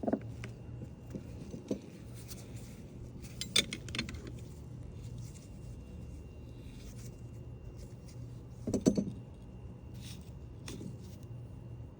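Scattered metallic clinks and rattles, a few short clusters several seconds apart, the loudest about nine seconds in, over a steady low hum.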